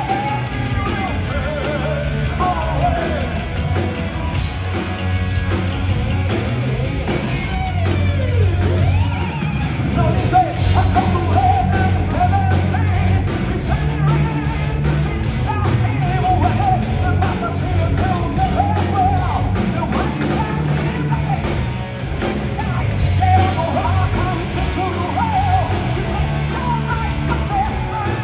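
Heavy metal band playing, with a sung and yelled vocal line over a dense, steady backing of instruments.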